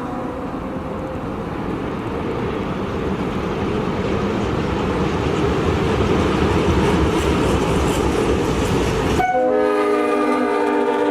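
A train running by with a heavy low rumble that grows slowly louder; about nine seconds in, it is cut off abruptly by a train horn sounding a steady multi-note chord.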